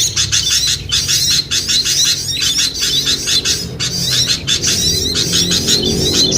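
Bird-lure recording of many small songbirds calling at once: a dense, busy chorus of rapid high chirps and twitters, used to draw small birds down. Low notes of background music come in underneath from about two seconds in.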